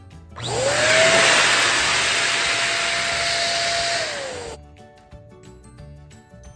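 Electric balloon pump inflating a balloon: the motor whines up to speed about half a second in, blows steadily for about four seconds, then winds down and stops.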